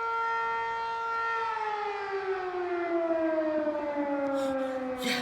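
Town fire siren sounding one steady tone, then, about a second and a half in, winding down as its pitch slowly falls.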